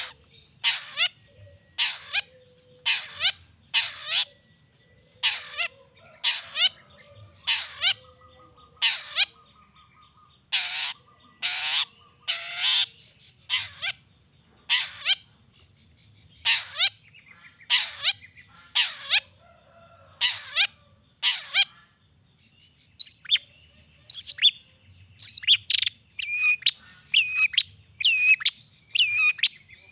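Long-tailed shrike (cendet) singing: a run of harsh, scratchy calls about one a second, with three longer, louder ones near the middle. Faster, shorter calls mixed with clear whistled notes follow after a brief pause.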